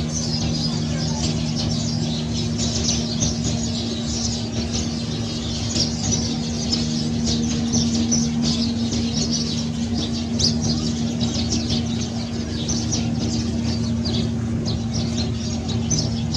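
Birds chirping in quick, scattered calls over a steady low hum.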